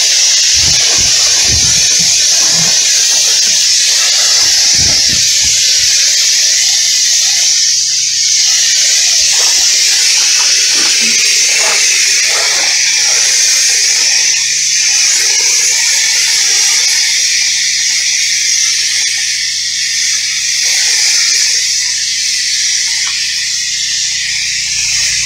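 Pressure-washer wand spraying house-wash solution onto siding: a loud, steady hiss of the spray, with a few low knocks in the first few seconds.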